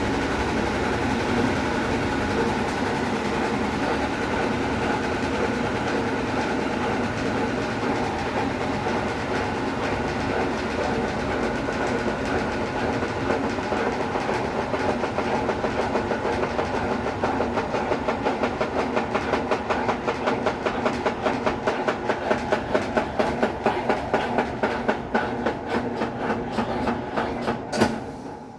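Consul Facilite 11 kg washing machine running its wash stage with a steady motor hum. From about halfway through the hum takes on a rhythmic pulsing of about three beats a second, which stops abruptly with a click near the end.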